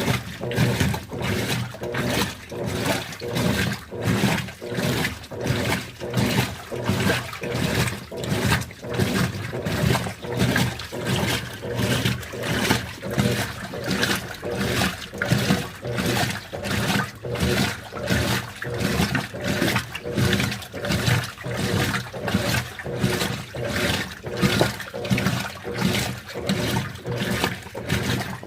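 Continental Evolution 13 kg (LVCT1330) washing machine agitating on its delicates programme with an extra-low water level: water sloshing in even, rhythmic surges, about three every two seconds, over a low motor hum.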